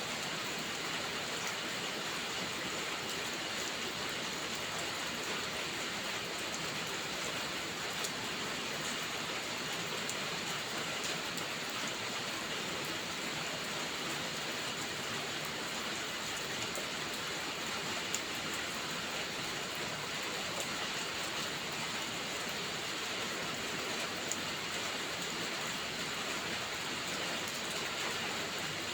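Steady rainfall, an even hiss with a few faint sharp ticks scattered through it.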